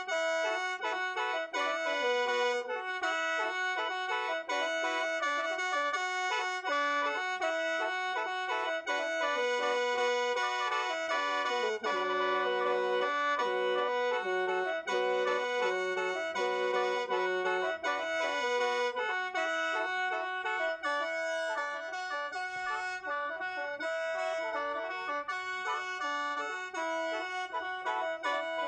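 Khaen, the Lao bamboo free-reed mouth organ, played solo in the Lam Phuan style: a continuous melody in chords over held drone notes.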